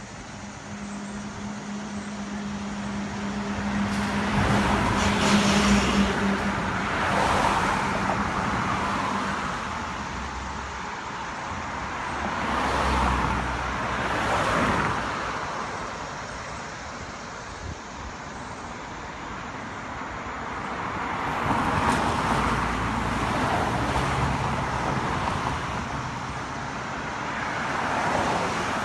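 Road traffic: several cars passing one after another, each one's tyre and engine noise swelling and then fading, with a steady low engine hum during the first few seconds.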